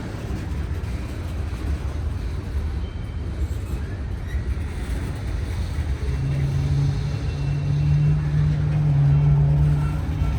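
Norfolk Southern freight cars rolling slowly past, a steady low rumble of wheels on rail. About six seconds in, a steady low hum joins the rumble.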